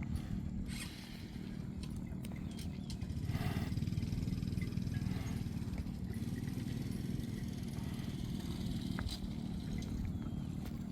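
A steady low engine hum, with scattered light clicks and knocks over it.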